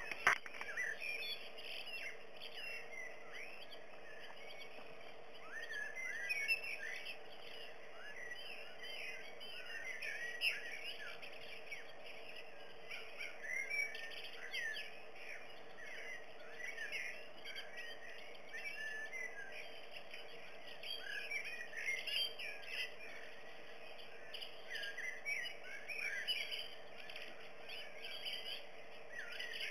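Birds chirping: many short, quick calls overlapping without a break, over a steady faint hum. One sharp click right at the start.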